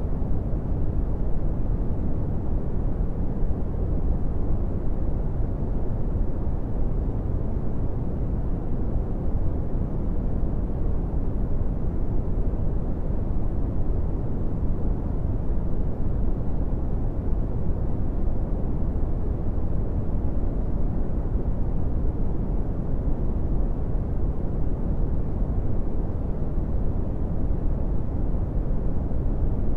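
Steady brown noise: an even, deep rumbling hiss with most of its energy in the low end and little treble, unchanging throughout.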